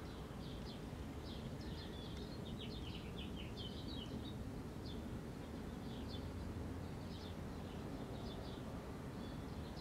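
Faint chirping of small birds in short quick notes, repeated in little clusters over a steady low background rumble.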